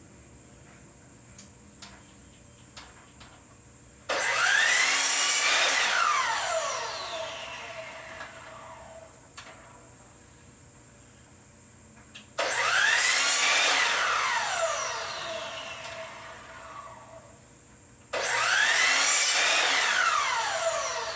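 Electric power saw started three times, cutting a piece of cedar picket to size and tapering its corners. Each time the motor whines up, cuts, and is let go to spin down in a falling whine, with a few small handling clicks before the first cut.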